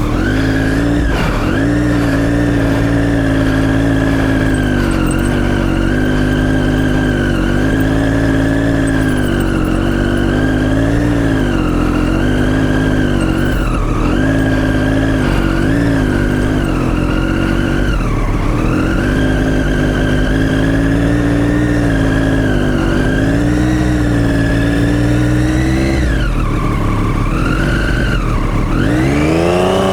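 Motorcycle engine held at high revs while the bike skids in the dirt with its rear wheel spinning, the pitch wavering up and down as the throttle works. Near the end the revs fall and climb again in several deep sweeps.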